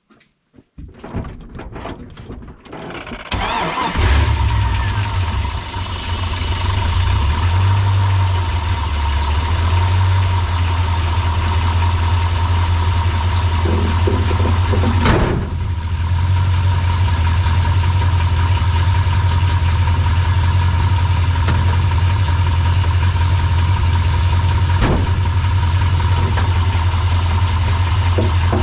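Chevrolet/GMC 6.0 V8 truck engine cranked and started about four seconds in after a few clicks and knocks, then running steadily close to the microphone under the hood. A single sharp knock comes twice later on.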